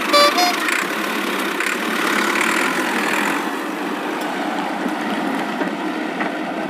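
Cartoon sound effect of a toy vehicle's engine running steadily, with a short two-note horn beep right at the start.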